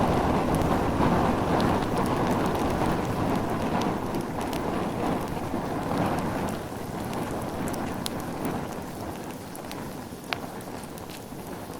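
Campfire burning: a dense rush of flames with scattered crackles and pops, one sharper pop about ten seconds in. The rush eases off gradually over the second half.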